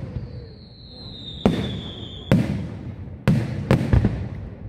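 Aerial firework shells bursting: five sharp bangs, the last three in quick succession. A whistling shell sounds during the first two seconds, one long whistle falling slightly in pitch.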